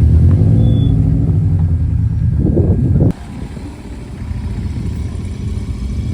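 A car engine running with a deep, steady rumble that swells briefly and then cuts off abruptly about three seconds in, leaving a quieter engine rumbling for the rest.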